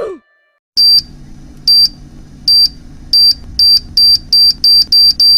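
A loud electronic beep repeating faster and faster over a low hum, starting about a second in at roughly one beep a second and speeding to about three a second, like a countdown timer.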